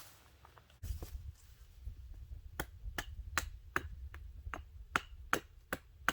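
A quick, irregular series of sharp snaps or cracks, about two to three a second, starting about two and a half seconds in, over a low rumble.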